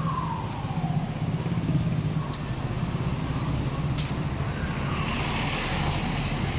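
Street traffic: motor vehicles running past under a steady low engine rumble, with one engine note falling in pitch as it goes by early on and a vehicle swelling up near the end.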